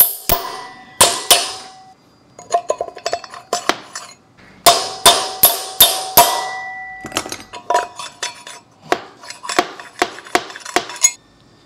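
Hammer blows on a metal socket used as a drift, seating a new 6201 front wheel bearing in a scooter's wheel hub. Runs of lighter taps alternate with five heavy ringing strikes about halfway through, and the hammering stops near the end.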